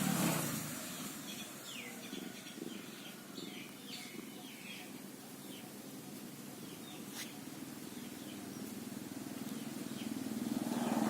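A run of short, high chirps in quick succession, typical of a startled squirrel's alarm calls, over a steady low hum that swells at the start and again near the end.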